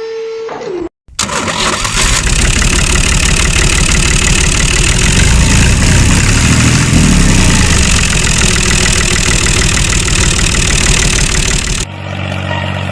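A loud engine running steadily. It starts abruptly about a second in, after a brief silence, and cuts off suddenly near the end.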